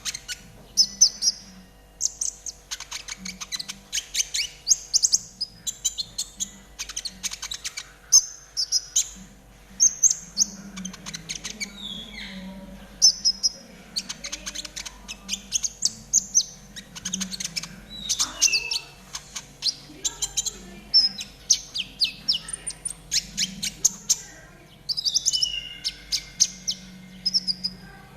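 Konin songbird singing a fast 'trotol' song: rapid stuttering trills and chirps in short high-pitched phrases, one after another throughout, over a faint steady hum.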